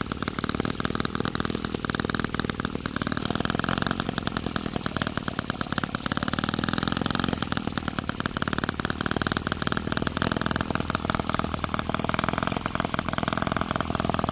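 Miniature 5cc two-cylinder four-stroke gasoline model engine running steadily with rapid, even firing pulses, its speed drifting slightly up and down partway through.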